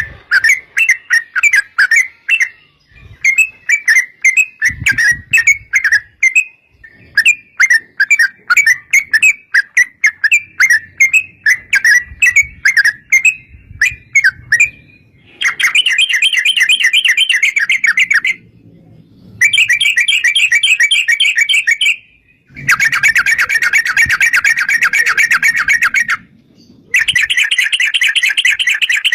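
Yellow-vented bulbul song: repeated chattering phrases of quick notes for about the first fifteen seconds, then long, unbroken rapid trills (the "long ropel") broken by three short pauses.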